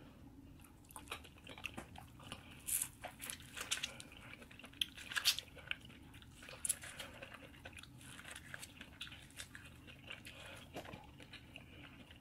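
Close-miked chewing and biting of food, with short crisp crunches and mouth clicks coming irregularly, most often in the first half.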